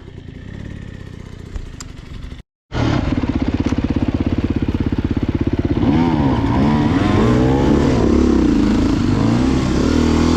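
Off-road motorcycle engine running on a trail ride. After a brief dropout about two and a half seconds in, it runs loud, with the revs rising and falling over and over from about six seconds in.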